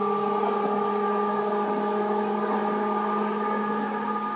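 Seibu 2000 series electric commuter train running, heard from inside a car: a steady hum of several tones that holds one pitch over rolling noise, easing slightly near the end.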